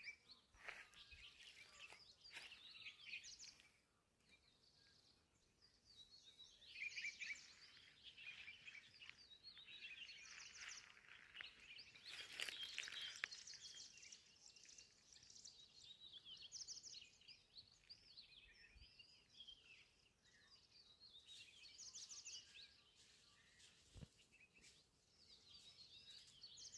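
Faint birdsong: birds chirping and trilling on and off in short, high, rapid phrases, with a few seconds of quiet between bursts.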